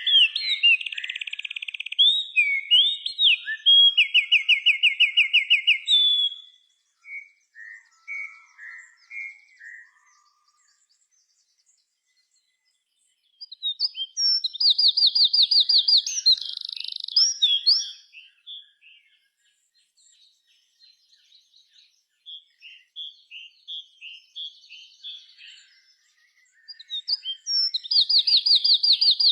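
Small songbirds singing: loud bursts of rapid trilled notes, about ten a second, come three times, with softer scattered chirps between them and a few seconds of silence near the middle.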